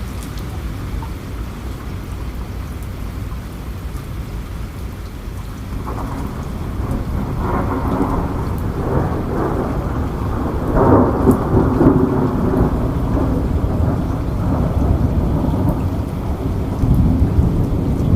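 Steady rain with a long roll of thunder that builds about six seconds in and is loudest around eleven seconds.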